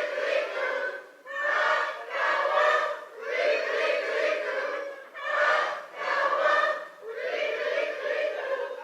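Concert audience calling out together in repeated pitched group cries, about five calls each a second or two long with short breaks between, imitating bird calls.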